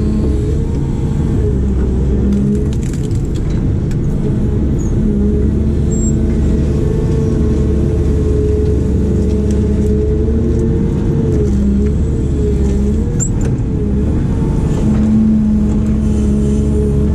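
Diesel engine of a heavy construction machine running steadily under working load, its pitch wavering slightly up and down.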